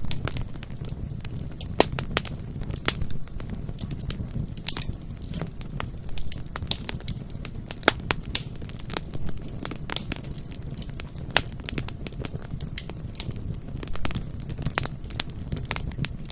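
Bonfire burning, with many sharp, irregular crackles and pops from the wood over a steady low rumble of the flames.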